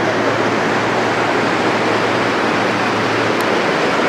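Floodwater from a flash flood rushing past in a loud, steady torrent. A faint low hum under it stops about three and a half seconds in.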